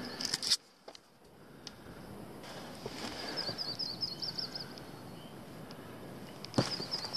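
A small songbird sings a quick run of about eight repeated chirping notes, once about three seconds in and again near the end. A hiker's footsteps knock on the rocky trail at the start and again near the end, and these are the loudest sounds.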